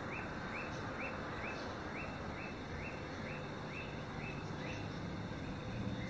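A bird calling a short rising chirp over and over, about two a second, that stops near the end, over steady outdoor background noise.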